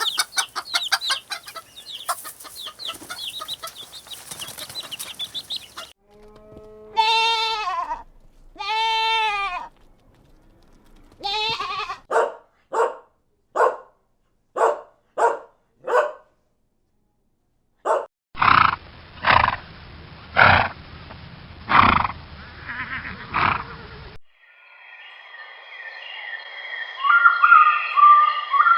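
Farm animals calling in a run of separate short recordings: a dense burst of chattering calls, then two long, arching bleats a couple of seconds apart, a quick series of about eight short calls, a series of louder calls over a noisy background, and finally high, wavering calls.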